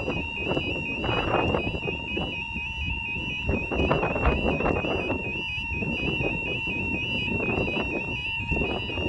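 Level crossing warning alarms sounding as the half barriers begin to lower: a high-pitched electronic tone warbling rapidly between two pitches, with a fainter steady lower tone under it. Wind rumbles on the microphone.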